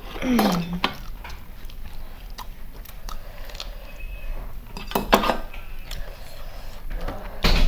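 Dishes and utensils clinking and scraping during a meal, with scattered sharp clinks; the loudest come about five seconds in and near the end. A short falling sound is heard right at the start.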